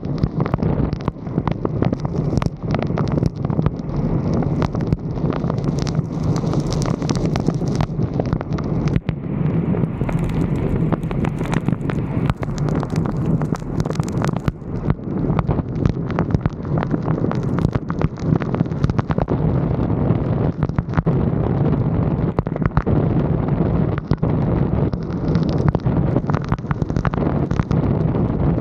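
Wind buffeting the microphone of a roof-mounted 360° camera, a loud steady rumble, with many sharp pops scattered throughout.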